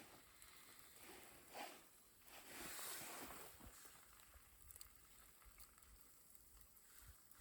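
Near silence: faint outdoor background noise, with a few soft swells of noise around two to three seconds in.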